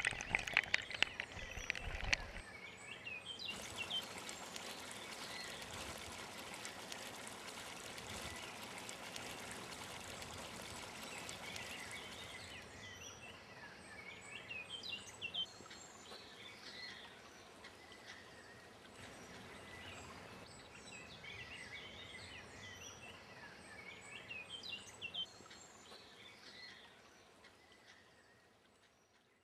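Water trickling and splashing, settling into a steady run of flowing water, with small birds chirping over it again and again. The water sound eases off about twelve seconds in, and everything fades out at the end.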